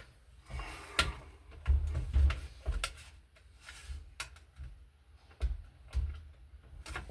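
Irregular clicks, knocks and dull thumps of hand work, with tools and parts being handled and set down.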